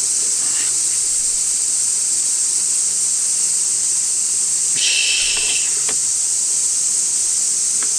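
Dense chorus of cicadas: a steady, shrill, high buzz that never lets up. A second, lower buzz joins for under a second about five seconds in.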